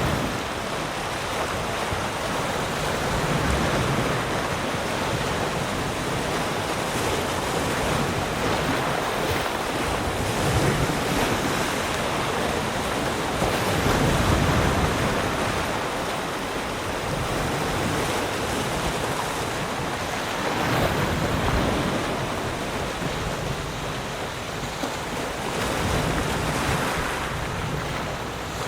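Ocean waves breaking and washing in a continuous surf, swelling and easing every few seconds, with wind blowing across it.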